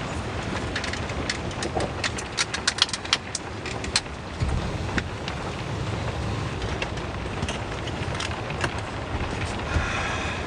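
Heavy rain falling in a steady rush, with a run of sharp taps from about one to four seconds in.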